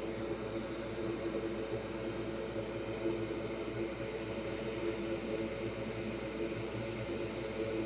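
Hot air rework station blowing steadily, a constant airy whir with a faint steady hum under it, as it heats a solder ball on a circuit board to reflow it into a new pad.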